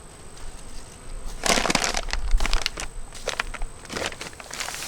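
Crackling rustle of paper and dry granulated sugar being handled on top of a beehive, in a burst about a second and a half in and again near the end.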